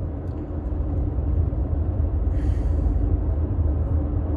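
Steady low rumble of a car in motion, with a brief soft hiss about halfway through.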